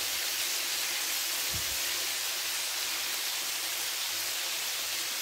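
Chicken pieces sizzling steadily in hot oil in a flat frying pan.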